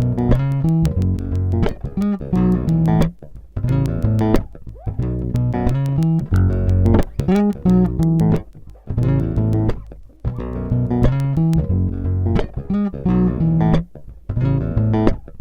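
Intro music: a plucked bass guitar playing bass lines in short repeated phrases.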